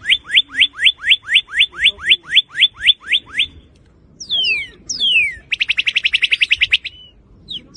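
Northern cardinal singing: a fast run of about fourteen down-slurred whistled notes, roughly four a second, then after a short pause two long falling whistles and a rapid trill, with falling whistles starting again near the end.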